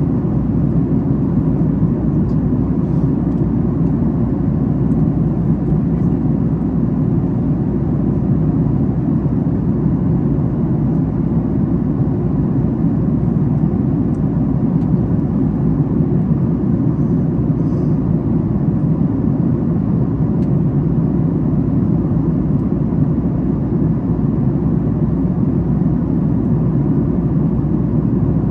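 Steady low rush of cabin noise inside a Boeing 737 MAX 8 airliner at cruise, from airflow and its CFM LEAP-1B turbofan engines, with no change in pitch or level.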